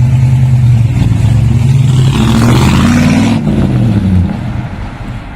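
Muscle car engine running loud, then revving up in pitch about two seconds in with a rush of noise, before dropping back and fading toward the end.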